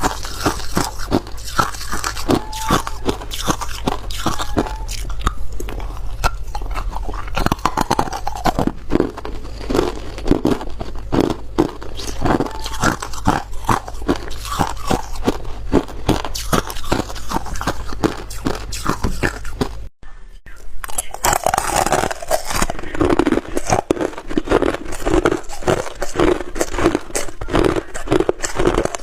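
Ice being bitten and chewed close to the microphone: rapid, loud, continuous crunching. There is a brief drop-out about two-thirds of the way through, then the crunching carries on.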